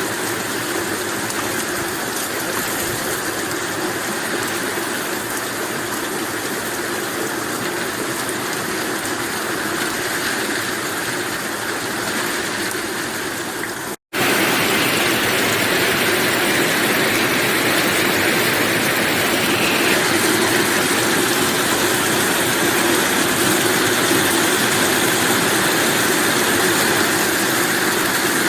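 Heavy rain falling steadily, an even hiss. It cuts out for an instant about halfway through, then resumes a little louder.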